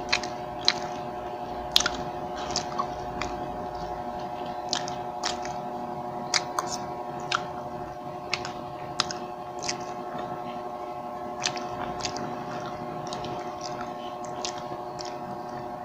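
Close-miked chewing and mouth sounds of a person eating: wet smacks and clicks about every half second to second, over a steady low hum.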